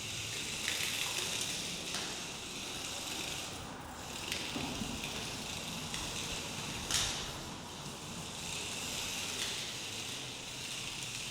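Small electric motor and rubber tyres of an LDARC 1:64 mini rear-wheel-drive RC car running over an uneven hard floor: a high hiss that swells and fades with the throttle, broken by a few sharp ticks.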